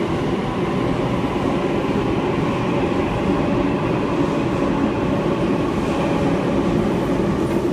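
Sydney Trains Waratah (A set) electric train pulling out of the station: a steady loud rumble of wheels on rail with a faint motor hum.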